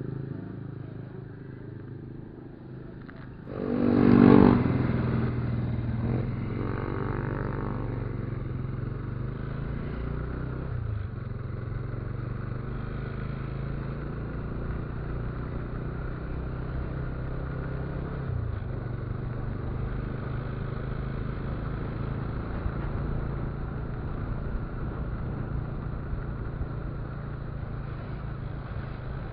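Motorcycle engine running steadily while riding. About four seconds in there is a brief, loud pitched sound that rises and fades, then a weaker one a few seconds later.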